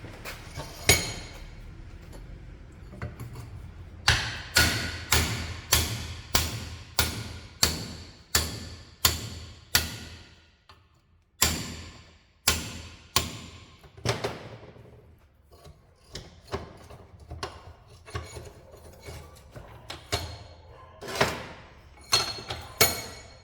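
Hammer blows on a steel tube driver, knocking an old bushing out of a truck's suspension control arm. The sharp metallic strikes come in runs of about two a second, with a pause of about a second and a half partway through and lighter, scattered hits later on. The bushing is stuck and not yet coming out.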